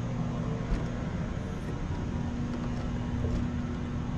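Steady low hum over an even bed of background noise, the ambience of a large exhibition hall, with no distinct events.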